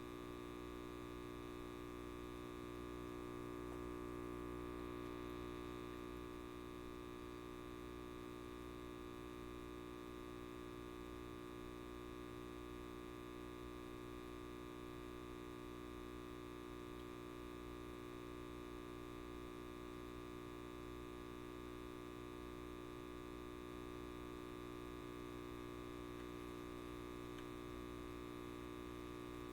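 Electric light bulb buzzing: a steady, faint mains hum with many layered tones, unchanging throughout.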